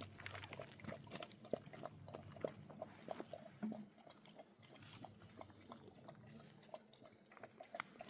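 Faint, irregular small clicks and knocks, with a low hum through the first few seconds.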